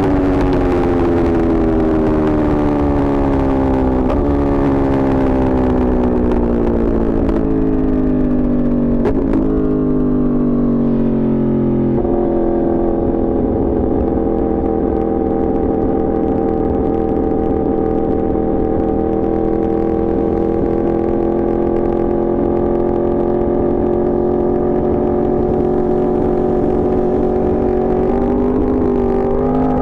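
Yamaha R1's inline-four engine running under way, its revs easing slowly down for about twelve seconds with small breaks in the note. It then holds a steady, slightly rising cruising pitch until a change near the end.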